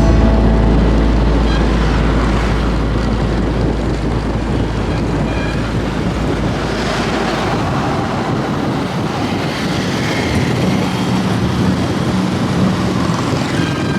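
Wind rushing over the microphone and road noise from a moving motorbike. A heavy low rumble fills the first six seconds or so, then eases to a steadier rush.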